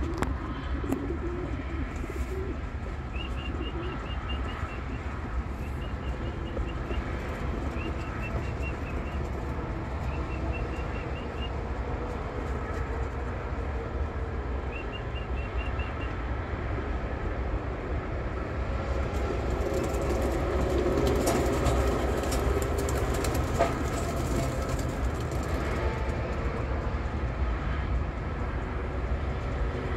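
Young racing pigeons being released: cooing, then a burst of wing flapping and fluttering in the second half as the flock takes off, over a steady low rumble. Short high chirping trills come several times in the first half.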